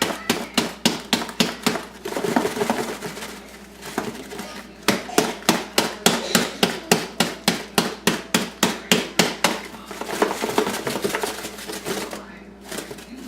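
Rapid tapping and knocking on a container, about four to five strikes a second in a few spells, with scraping between them, as clumpy borax powder is worked into a measuring cup.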